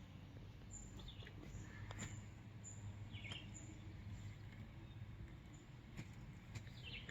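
Birds chirping faintly: short, high chirps repeating about once a second, with a few lower chirps in between, over a quiet, steady background hum.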